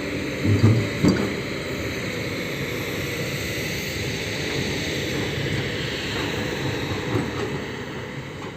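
A heavy machine's engine running steadily, with a few short knocks about a second in. The sound fades out near the end.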